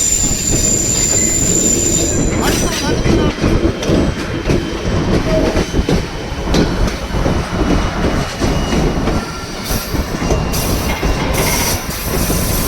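White Pass & Yukon Route narrow-gauge train running on the rails with a heavy low rumble and irregular knocks from the wheels. High-pitched wheel squeal sounds for the first couple of seconds and comes back near the end.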